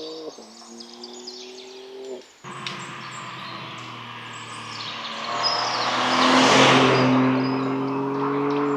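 BMW M2's twin-turbo inline-six accelerating and upshifting: engine pitch drops just after the start, again briefly a couple of seconds in, then climbs slowly through a long pull, with a rush of noise swelling to its loudest past the middle. Birds chirp throughout.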